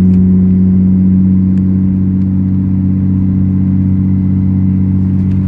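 2014 Cummins 6.7 inline-six turbo-diesel running at a steady speed through a straight-pipe exhaust, a deep even drone with no change in pitch.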